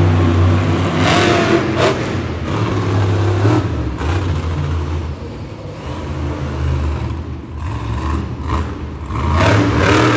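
Monster truck engine revving hard and easing off, loudest at the start and again near the end, with a few sharp knocks.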